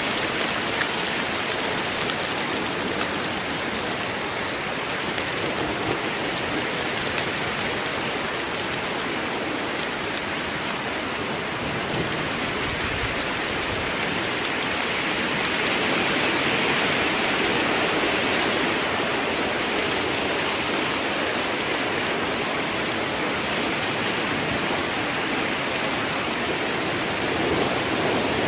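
Steady rain: an even, dense hiss of many drops, swelling slightly about halfway through.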